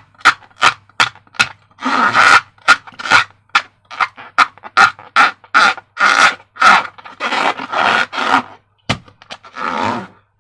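Balloons and slime being handled: a fast, irregular run of short rubbery squeaks and squelches, many a second.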